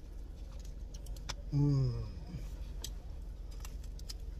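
A person chewing food, with small wet mouth clicks scattered through. About a second and a half in, a man gives one short, falling "mmm" of enjoyment.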